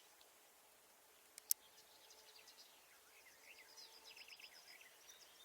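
Faint chatter of small birds chirping, many short calls overlapping and busiest in the second half, with one sharp click about a second and a half in.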